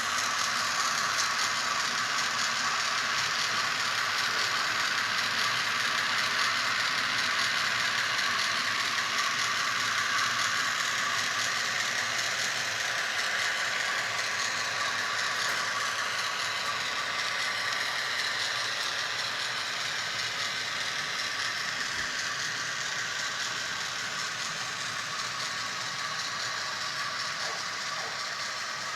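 HO scale model train running along its track: a steady whir of the locomotive motor with the rattle of small wheels on rail, slowly getting quieter over the second half.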